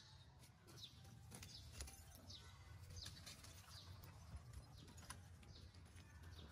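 Faint, short, high chirps from a small bird, each falling quickly in pitch and repeated about once or twice a second, over a low background rumble with a few faint clicks.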